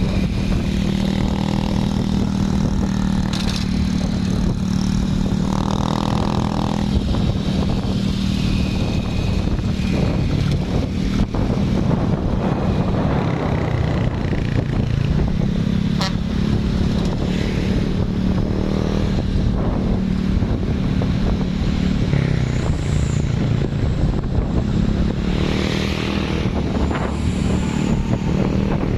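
Truck engines running steadily amid road traffic, their low drone shifting in pitch as vehicles go by. There is a short mid-pitched tone about six seconds in.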